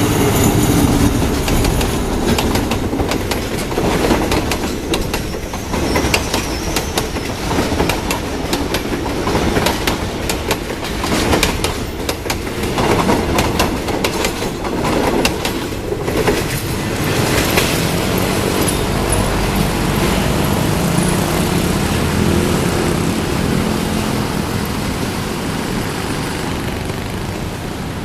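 Train wagons rolling across a railway bridge: repeated wheel clacks over the rail joints through the first half, then a smoother rumble that slowly fades near the end.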